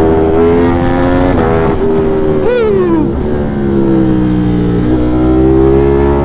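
Onboard sound of a 200+ horsepower motorcycle engine running under way at a steady cruise. About two and a half seconds in, the engine pitch rises briefly and then falls sharply as the revs drop, before settling back to a steady note.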